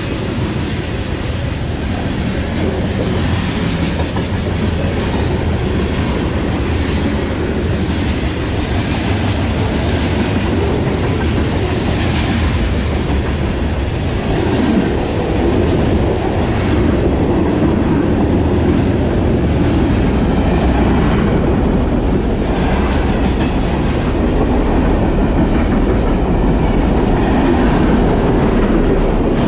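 A train rolling past on the tracks: a steady rumble and clatter of wheels on rail, growing slightly louder about halfway through, with a faint high wheel squeal twice.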